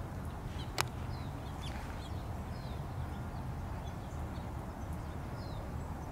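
Small birds chirping, many short falling calls scattered throughout, over a steady low rumble. A single sharp click about a second in.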